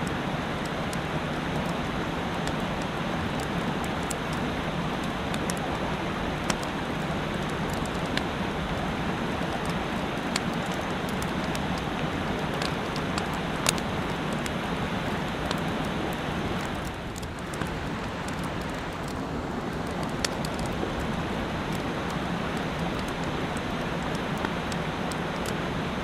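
A mountain stream rushing steadily, with a campfire's sharp crackles now and then.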